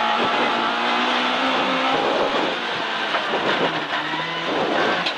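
Sunbeam 1400 rally car's engine heard from inside the cabin under heavy road noise. Its note holds for about two seconds, then drops and settles lower, as the car slows for a called hairpin.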